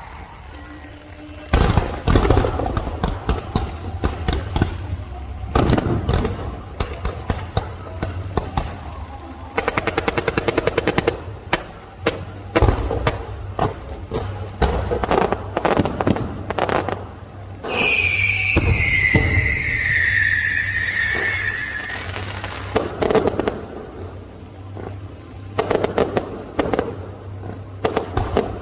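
Fireworks going off in bursts of loud bangs and crackles, with a fast, even string of reports about ten seconds in. A falling whistle lasts several seconds past the midpoint.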